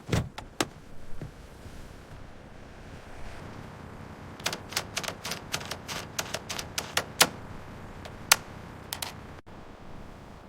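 Sharp clicks and knocks: a few near the start, a quick irregular run of about a dozen in the middle, and a couple more near the end, over a low steady hum.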